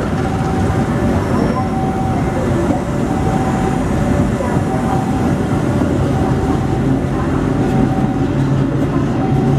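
A train running past close by: a steady, loud rumble of wheels on the rails. A short tone repeats about every second and a half throughout.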